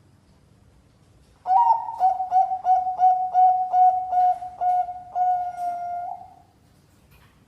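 Zebra dove (Bangkok-type perkutut) cooing. A quick string of about a dozen short, clear coo notes starts about a second and a half in and ends in one longer held note, all at one steady pitch.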